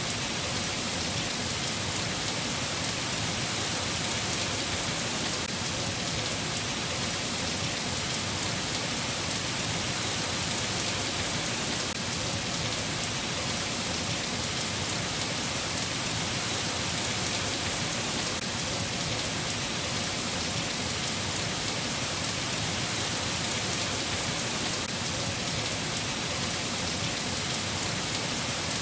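Steady rain: an even hiss with a fine patter of drops, holding at the same level throughout.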